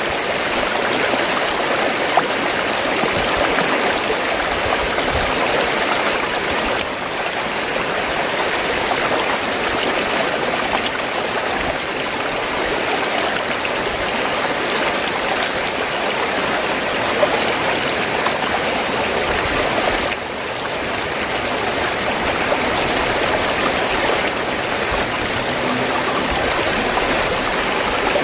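Fast-flowing stream rushing and gurgling over rocks, a steady even sound.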